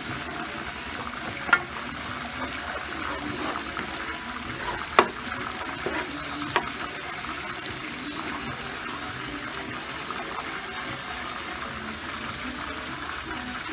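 Minced garlic and oyster sauce sizzling steadily in oil in a nonstick pan, with a few sharp clicks of a spatula knocking on the pan in the first seven seconds.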